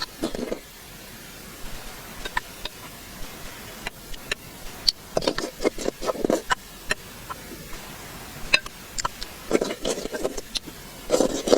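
Close-miked eating sounds: chewing and wet mouth noises in short bouts, with scattered sharp clicks, the bouts coming about four or five seconds apart.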